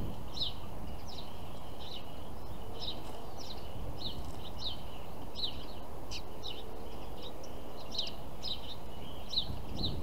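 Small birds chirping: short, sharp high notes repeating about twice a second, over a steady low background rumble.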